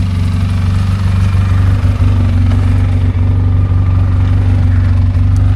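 ATV engine running steadily with an even, deep drone.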